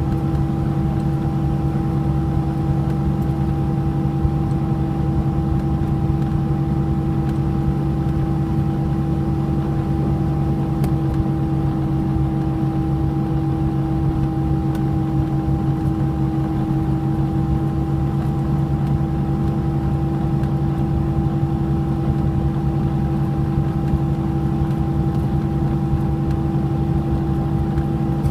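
Cessna 421's twin piston engines running at a steady setting: an even drone with several fixed tones over a low rumble, unchanging throughout.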